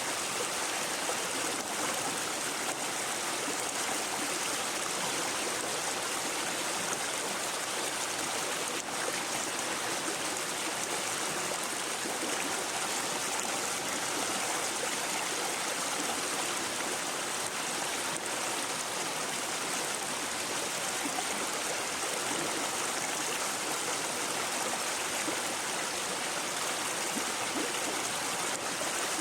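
A shallow brook babbling and trickling over stones, a steady, even rush of running water.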